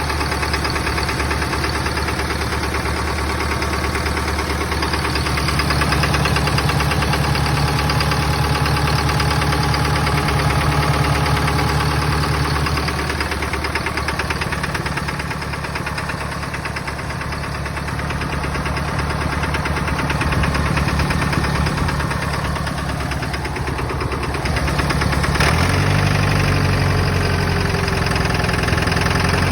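Engine idling with a pronounced knock. Its note changes abruptly about 25 seconds in.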